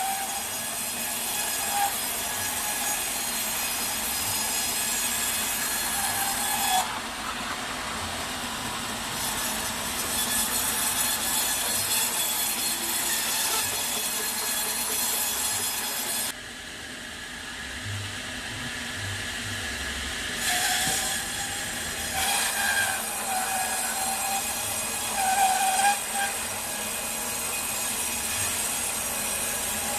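Sawmill saw cutting through a teak log: a steady machine noise with a ringing, squealing blade tone. The high part of the sound drops away for a few seconds in the middle, then returns with short squeals.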